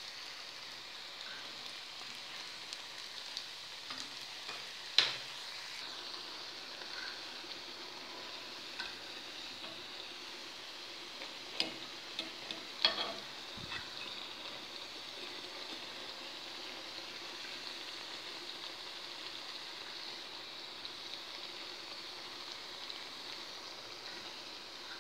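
Pieces of semolina dough (maqrout) deep-frying in hot oil in a pan, a steady sizzle. A few sharp clicks from the metal fork turning the pieces against the pan, the loudest about five seconds in and two more near the middle.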